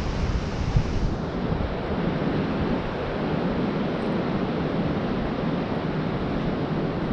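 Surf washing on a beach, with wind buffeting the microphone, and a brief thump about a second in.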